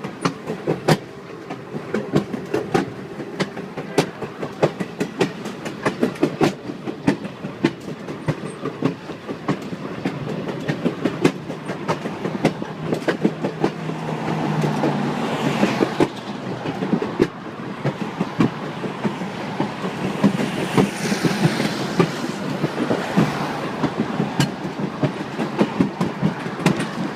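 Napa Valley Wine Train in motion, heard from aboard: wheels clicking over the rail joints in a steady clickety-clack over a continuous running rumble, swelling louder twice about midway and later on.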